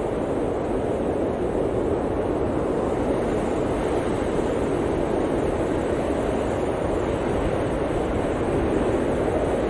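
Steady blizzard wind blowing hard, a continuous low rushing noise with no gusts breaking through.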